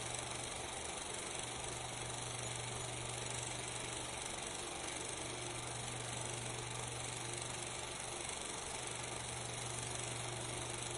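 Small film projector running: a steady mechanical whir over a low, even hum.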